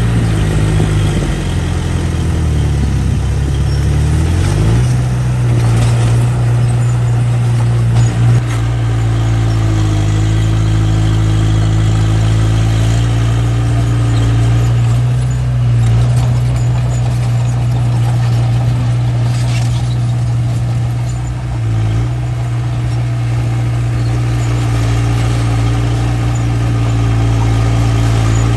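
Small bulldozer's diesel engine running steadily under load, its pitch dipping and recovering in the first few seconds, with a few short knocks later on.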